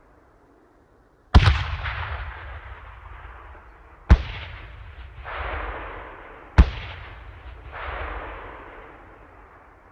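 Three explosions about two and a half seconds apart, each a sharp blast followed by a long rumbling tail that swells again about a second later, like an echo rolling back.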